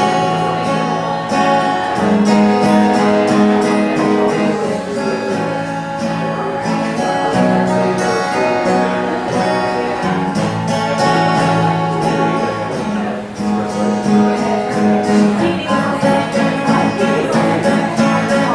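Acoustic guitar strumming the chords of a folk song, with long held notes sounding over the chords.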